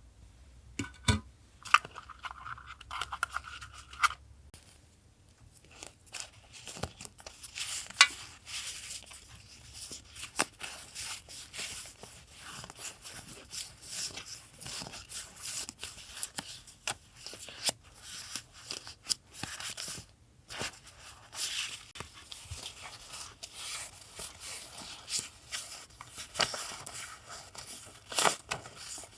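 Paper gift packaging being unwrapped by hand: rustling, crinkling and tearing, with many sharp crackles and taps throughout.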